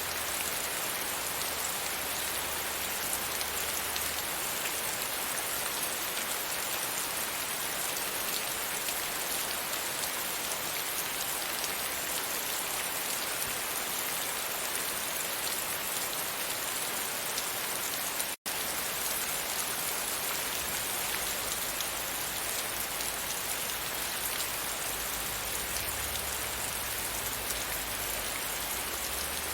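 Steady heavy rain pattering against a window pane, an even hiss with a faint low rumble underneath. The sound cuts out for an instant about eighteen seconds in.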